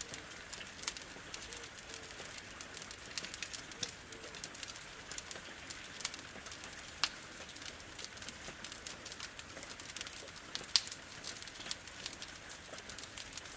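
Wood fire crackling with many irregular sharp pops, one louder pop about eleven seconds in, over a steady hiss of rain.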